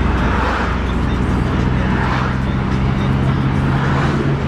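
Car engine and road noise while driving at a steady speed: an even, unchanging engine note under a rush of tyre and wind noise that swells a few times.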